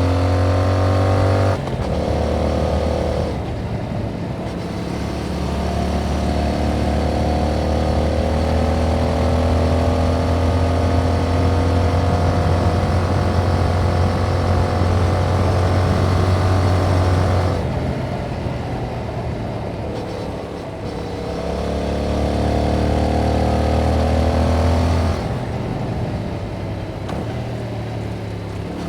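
2021 Yamaha MT-07's 689 cc parallel-twin engine on its original exhaust, ridden under throttle: the engine note climbs steadily for most of the stretch, with a brief break early on like a gear change. It eases off with falling pitch about two-thirds of the way in, pulls again, and eases off once more near the end.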